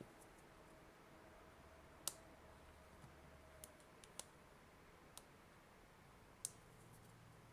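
Faint, scattered clicks and taps, about six in all, from hand work on the plastic case of a Nintendo Switch AC adapter as it is pried apart.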